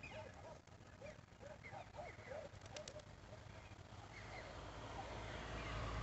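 A bird calling in a quick run of short, hooked notes, two or three a second, over the first half. In the second half a low rumble grows steadily louder.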